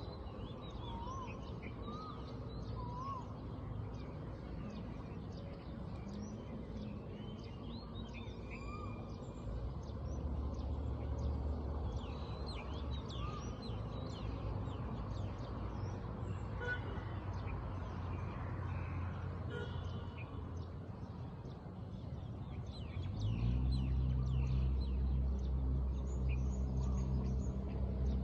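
A morning chorus of many birds chirping and calling. Under it runs a low steady hum that grows louder about ten seconds in and again near the end.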